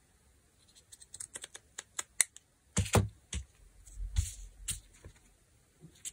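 Craft materials being handled on a work table: a run of light clicks and taps with a few heavier thuds, as pieces are picked up and set down.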